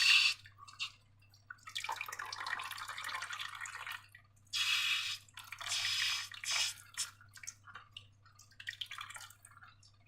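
Wet slime squelching and dripping in short irregular bursts, with a faint steady low hum beneath.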